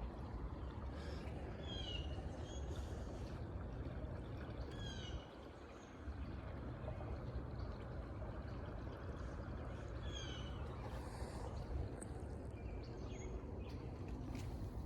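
Outdoor ambience with a steady low rumble that drops out briefly about five seconds in. Over it, a bird calls a few times, each call a quick run of short high notes falling in pitch.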